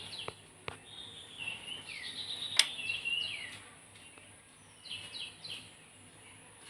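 Small birds chirping in quick runs of short falling notes, with a single sharp click about two and a half seconds in.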